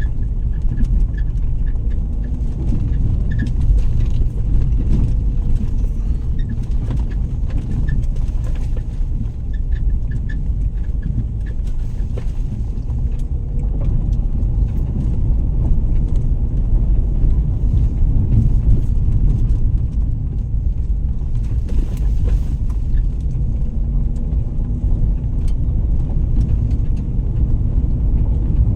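Steady low rumble of a vehicle on the move, road and engine noise, with a faint run of small ticks at times.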